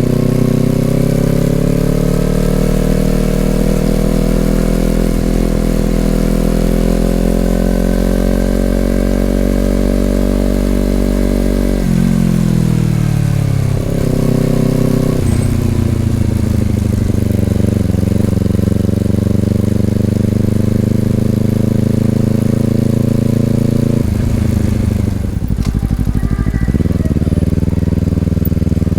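Honda CBR250RR's parallel-twin engine through an Over Racing aftermarket exhaust while riding: the engine note climbs steadily for about ten seconds, drops off sharply around twelve seconds, builds again, and falls away once more near the end.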